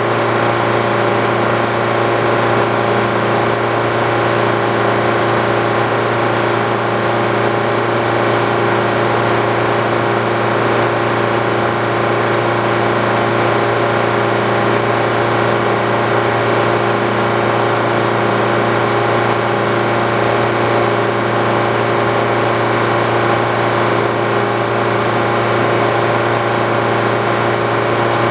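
Old Frick sawmill machinery running at a steady speed, a loud, even mechanical hum that does not change.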